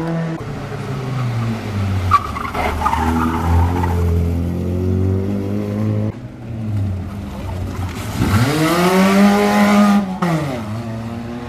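Engines of old wrecked race cars running on a dirt track. About eight seconds in, one engine revs up, holds high for a couple of seconds, then drops back off; this is the loudest part.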